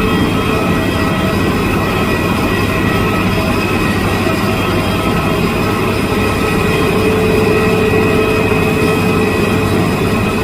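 Jet airliner engines running steadily: an even rumble with several high, steady whining tones over it, holding level throughout.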